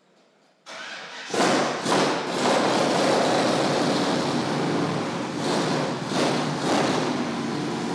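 Electric machine polisher running on the truck's sanded patina paintwork, mopping out small swells. It starts about a second in and keeps a steady, noisy whirr.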